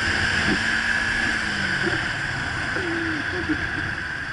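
Motorcycle riding noise: steady wind rush over the microphone with the engine running underneath, its low hum fading out about halfway through.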